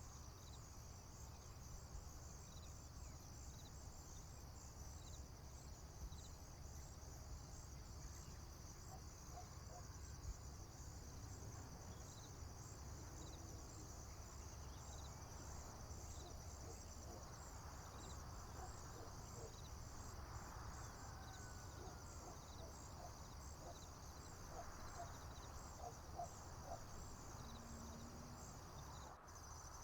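Crickets chirping steadily in a field in a thin, pulsing high-pitched chorus over a low rumble, with a few faint bird chirps about midway.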